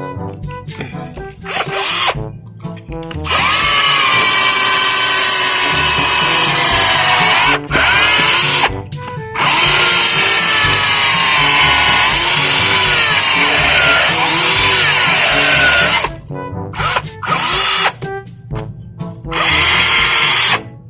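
Black & Decker cordless drill, its 12 V battery repacked to 16 V with 18650 lithium cells, drilling into concrete. The motor whine rises and sags in pitch under load in two long runs, with brief stops between and short stop-start bursts near the end.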